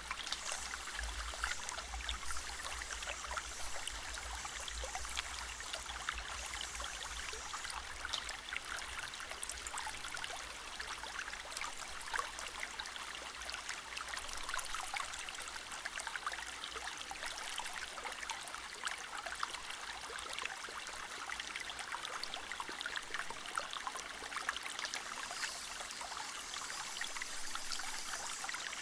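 Soft rain pattering steadily against window glass: an even hiss full of small drop ticks, with a low rumble underneath that fades after the first several seconds.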